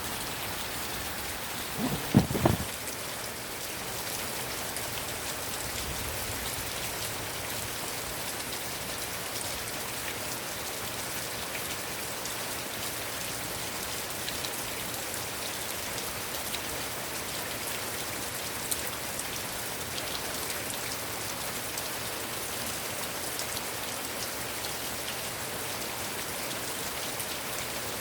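Heavy rain falling steadily, an even dense hiss of drops. About two seconds in, a quick cluster of two or three loud knocks stands out above it.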